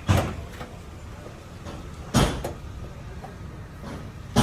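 Heavy knocks about two seconds apart, each with a short ring, from dent repair on a Suzuki Wagon R's damaged rear body panel.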